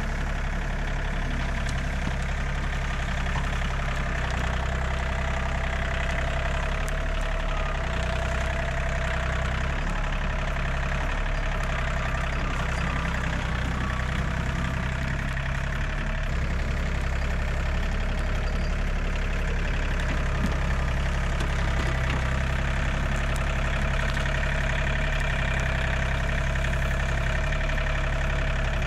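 John Deere 3320 compact tractor's three-cylinder diesel engine running steadily at an even speed.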